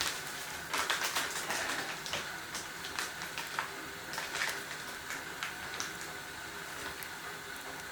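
Wood fire crackling: irregular sharp pops and snaps over a steady hiss, most frequent in the first couple of seconds.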